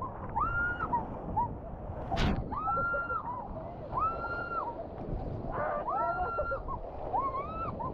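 A bird calling over and over: a whistled note that rises, holds and falls, repeated about once a second, over a steady noisy rush. There is one sharp crack about two seconds in.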